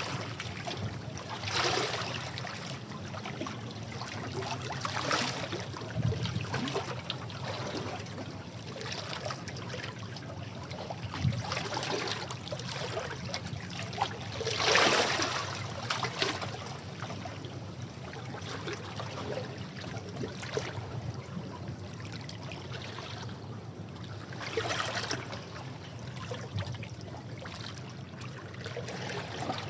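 Sea waves washing over rocks: a continuous rush of water that swells in surges every few seconds, the biggest about halfway through.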